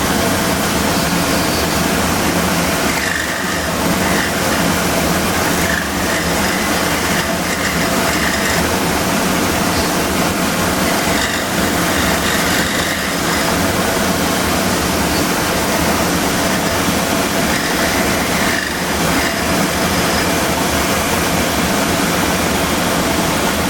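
Scroll saw running steadily while its blade cuts a square hole in a small wooden wheel.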